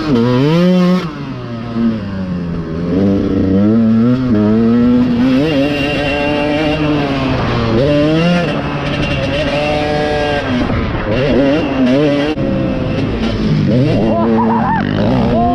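Dirt bike engines on a motocross track, the revs rising and falling again and again as the throttle opens and shuts, with more than one bike heard at times.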